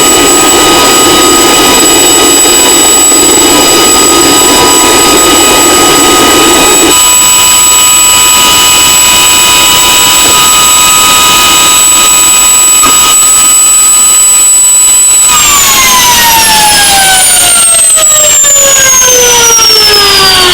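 Twin turbine engines of a CH-47 Chinook helicopter running with a steady high whine; about seven seconds in a lower rushing noise drops away. From about fifteen seconds in, the whine falls steadily in pitch as the engines wind down.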